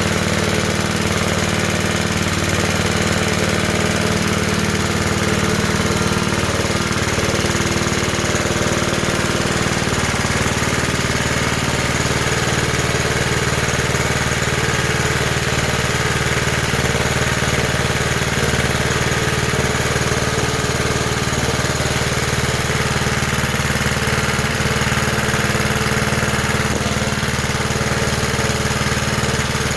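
Small engine of a Johnson Iron Horse 'Chore Horse' 12-volt DC generator running steadily on test, its note changing slightly about ten seconds in.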